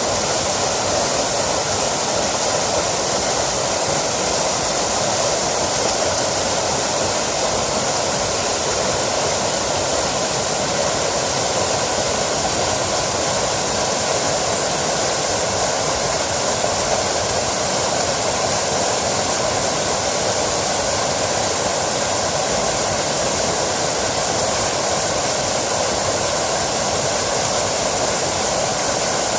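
Small mountain stream spilling over a little waterfall, a steady rushing of water that does not change.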